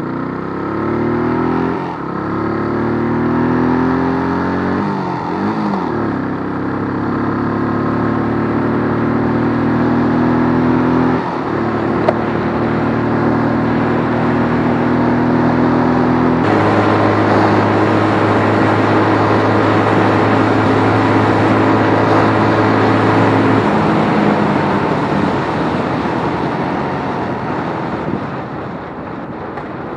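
Keeway RKF125 125 cc single-cylinder motorcycle engine revving up in the first few seconds, then running at steady revs with a few sudden changes in pitch, easing off and fading near the end.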